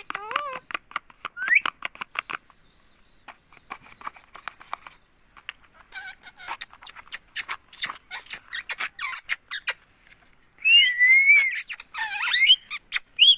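Pet Indian ringneck parakeet: a run of rapid sharp clicks and ticks, with a couple of short chirps early on, then two loud wavering calls near the end.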